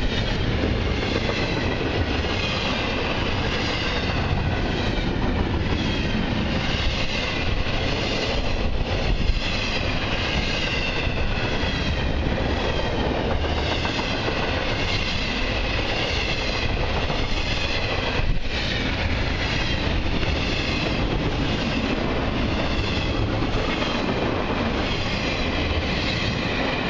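Double-stack intermodal well cars rolling past close by on steel rails: a steady rumble of wheel noise with a wavering high ringing over it and a few sharp clacks. The noise starts to drop away at the very end as the last car goes by.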